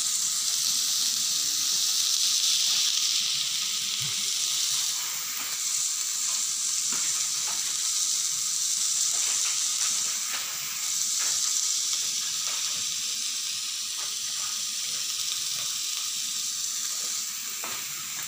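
Diced carrots, peas, onion and Chinese sausage sizzling as they fry in a hot steel wok, a steady high hiss with occasional light clicks.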